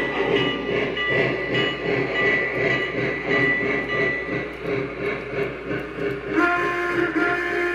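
The onboard sound system of a Lionel Western Maryland 1309 O-scale articulated Mallet steam locomotive model puts out a steady rhythmic chuff as the model runs. About six and a half seconds in, its steam whistle starts and is held.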